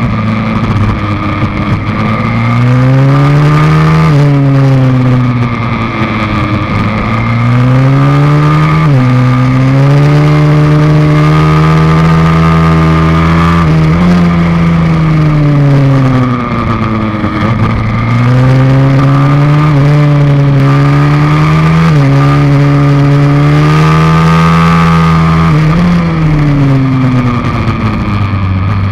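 Pit bike's YX160 single-cylinder four-stroke engine at full ride, heard from on board. It repeatedly climbs in pitch under throttle, then drops back sharply or winds down, several times over.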